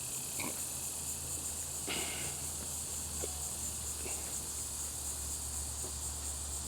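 Steady high-pitched insect chorus with a fast pulsing texture, over a low steady hum. A couple of brief soft rustles or knocks, about half a second and two seconds in.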